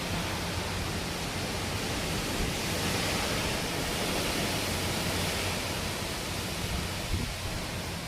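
Strong typhoon wind blowing as a steady rush of noise, swelling slightly a few seconds in.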